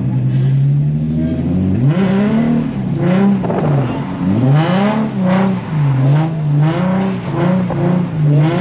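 Infiniti G35 coupe's V6 engine drifting: the revs hold steady at first, then from about two seconds in rise and fall again and again as the throttle is worked, with quicker short swings near the end.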